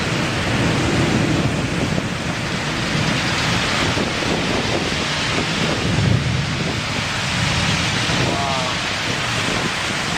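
Heavy rain pouring in a severe microburst thunderstorm, with strong gusting wind rumbling on the microphone in waves.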